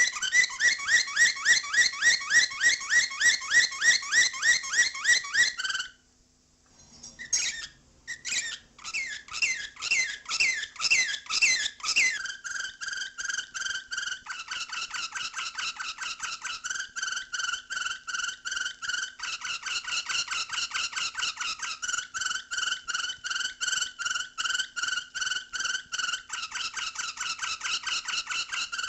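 Canary singing in long runs of rapidly repeated chirps, about six notes a second. The song breaks off briefly about six seconds in, then resumes and switches to a different, lower repeated note partway through.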